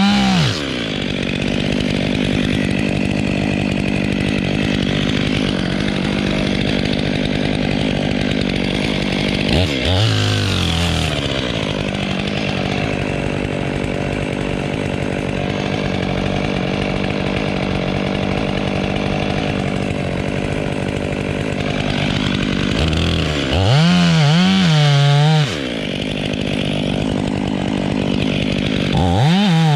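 Petrol chainsaw running at a steady idle, revved up briefly several times, with one longer, louder rev of about two seconds a little before the end.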